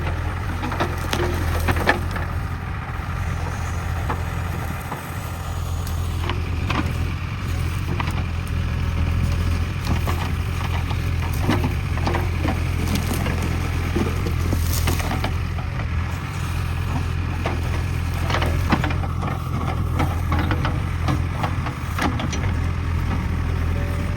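JCB backhoe loader's diesel engine running steadily under load, with many sharp cracks and snaps of branches and brush being broken and crushed by the bucket.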